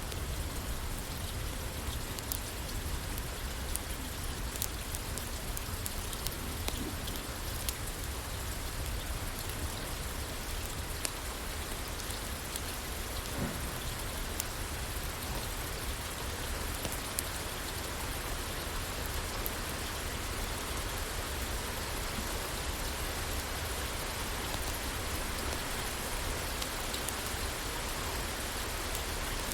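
Steady rain falling on a roof, with scattered sharp ticks.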